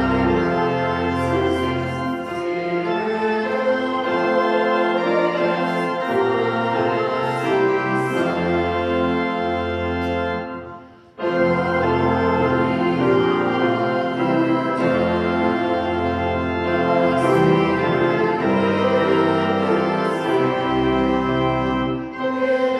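Organ playing a hymn in sustained full chords over deep bass notes. It breaks off for a moment about eleven seconds in, then goes on.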